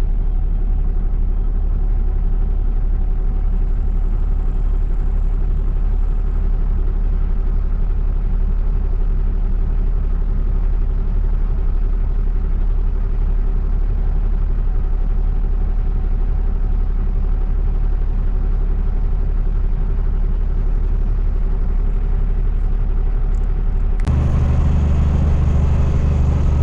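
Dump truck's diesel engine running steadily with a low drone. Near the end the sound changes suddenly to a louder, deeper engine note.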